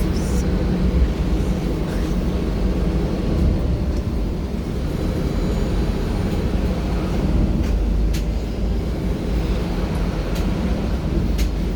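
Inside a Belkommunmash BKM 32100D trolleybus on the move: a steady low rumble of tyres and road with a faint electric drive hum, and a couple of short rattling clicks near the end.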